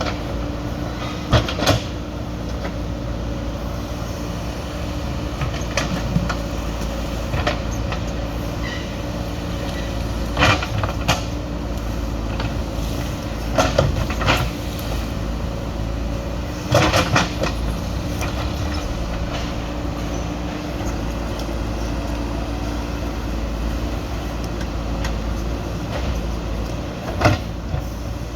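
JCB 3DX backhoe loader's diesel engine running steadily, with sharp knocks and clatters every few seconds, several in quick pairs, as wood is loaded.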